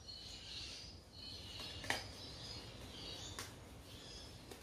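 Faint chirping of birds in the background, with two short clicks, about two seconds in and again about a second and a half later.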